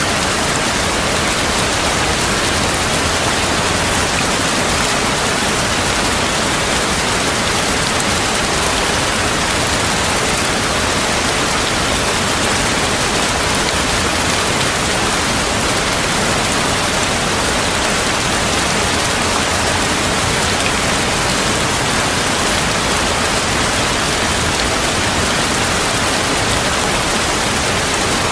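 Heavy rain falling steadily, a dense, even downpour with no thunder heard.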